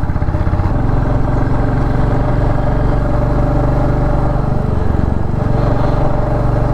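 Royal Enfield Classic 350's single-cylinder engine running steadily under way, its exhaust pulsing evenly, with a brief dip in the note about five seconds in before it settles again.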